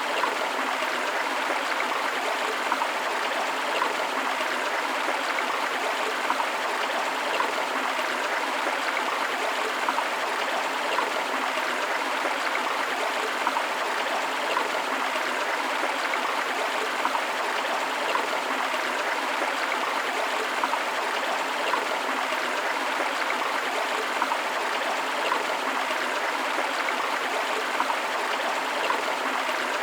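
Steady rush of a river or stream flowing over rocks, with small splashes and trickles breaking the even noise now and then.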